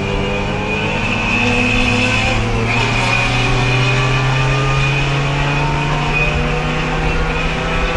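Race car engine heard from inside the car, pulling in fourth gear with its pitch rising slowly over the first few seconds and then holding steady, with a steady high whine above it. The car is held in fourth throughout because the worn-out transmission has lost third gear and won't shift at speed.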